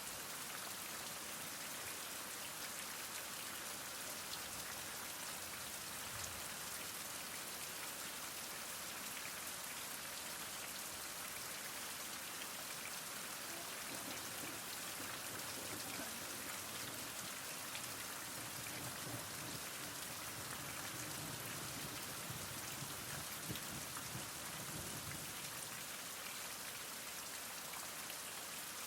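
Heavy rain falling steadily, an even hiss of many drops, with a soft low rumble swelling in through the middle stretch.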